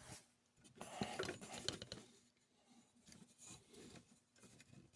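Faint rustling and a few light taps of a thin plastic sheet being handled on a wooden workbench, most of it about a second in, then a few small ticks.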